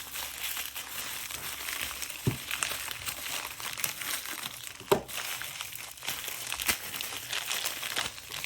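Packing material in a mail package crinkling and rustling as hands dig through it, with a few sharp knocks, the loudest about five seconds in.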